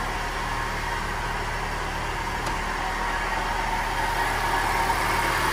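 2011 Chevrolet Celta engine idling with a loud, steady rumble like a worn bearing, the noise that the mechanic sets out to trace. It grows louder near the end.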